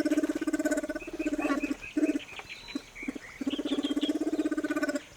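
Male spectacled bear giving a continuous pulsing, buzzing call in long runs with a few short breaks, and higher squeaky notes in the middle: a courtship call that signals curiosity and non-aggression.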